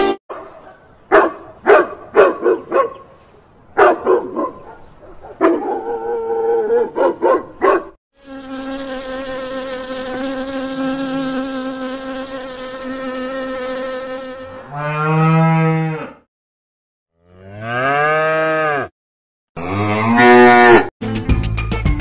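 A run of short chirping calls, then about six seconds of steady insect buzzing. Three long moo-like calls follow, each rising and then falling in pitch.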